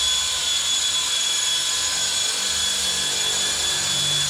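WLtoys V913 brushless RC helicopter in flight: a steady high-pitched whine from its brushless motor over a rushing hiss from the rotor blades.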